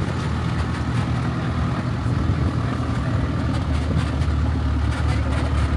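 Engine of a safari game-drive vehicle running with a steady low drone.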